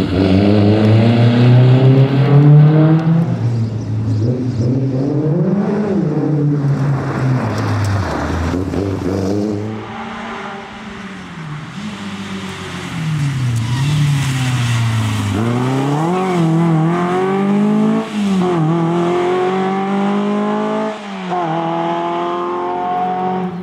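Škoda 130 rally car's engine revving hard, its pitch climbing through each gear and dropping at every shift and lift-off. The engine is quieter for a few seconds around the middle, then climbs through the gears again.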